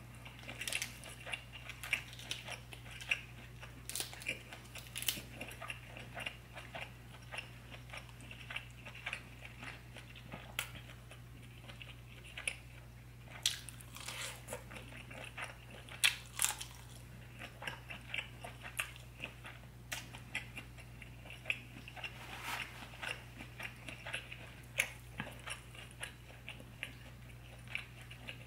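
Close-miked chewing and biting of sauce-coated seafood, with many irregular short mouth clicks, over a steady low hum.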